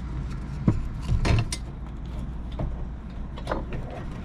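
Rivets and wooden handle pieces being handled and fitted together: a few light clicks and knocks over a steady low hum.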